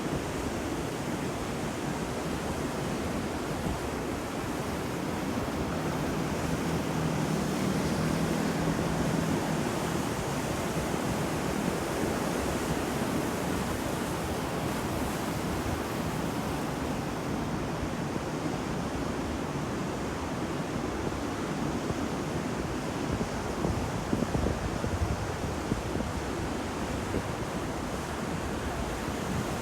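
Ocean surf: waves breaking and washing continuously, swelling louder for a few seconds about a quarter of the way in.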